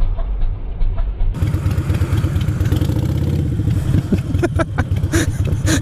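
Motorcycle engine running while riding, with wind rushing over the microphone. The sound changes abruptly to a fuller, brighter tone about a second and a half in, and a few knocks come near the end.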